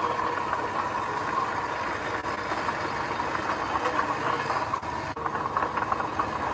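Diesel engine of heavy construction machinery running steadily, with a constant whine and quick clattering over it.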